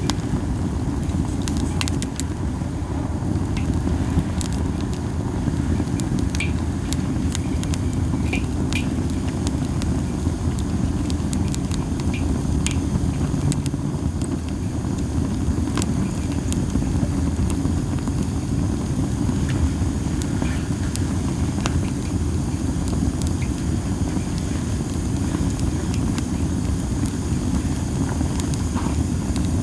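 Masaki (Japanese spindle tree) wood burning in a campfire, giving off scattered sharp crackles and pops over a steady low rumble of wind on the microphone.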